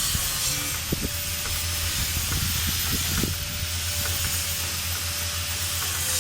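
Steady hiss with a constant low hum and a few faint knocks.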